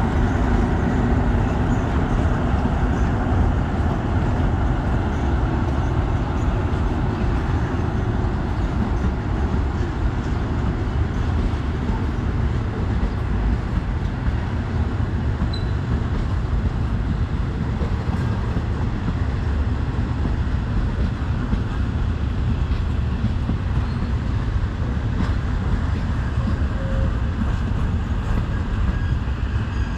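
Diesel train running through the station: a steady, heavy rumble with a low engine drone, easing a little after the first few seconds.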